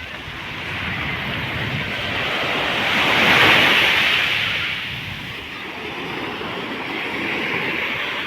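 Sea waves breaking and washing up a beach, one surge swelling to its loudest about three and a half seconds in and then easing off.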